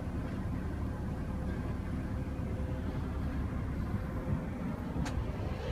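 Steady low background rumble of an outdoor setting, with a faint click about five seconds in.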